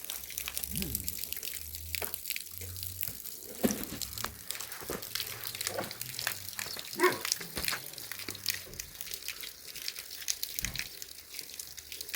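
Water splashing and trickling, with many small drips and splashes.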